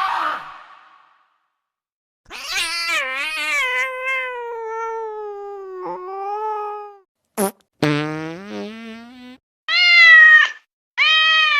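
A run of short sound-effect clips with silences between them: a cry fading away, a long wavering call falling in pitch, a click, a low sound rising in pitch, then two short calls like a cat's meow.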